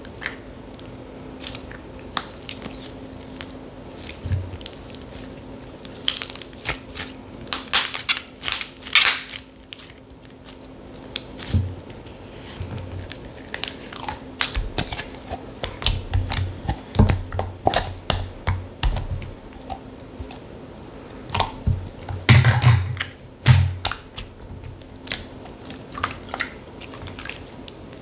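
Slime being squished and poked by hand, giving irregular sticky clicks, pops and crackles, with louder crunchy bunches around a third of the way in and again about four-fifths of the way through.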